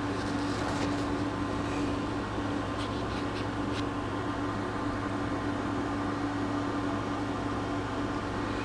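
Steady background hum with a constant low tone, and a few faint clicks about three to four seconds in.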